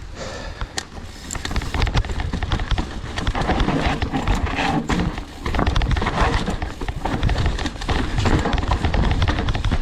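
Mountain bike clattering down a rough downhill trail: a dense run of knocks and rattles from tyres and frame over rocks and roots, over low rumbling wind on the microphone. It gets louder shortly after it starts.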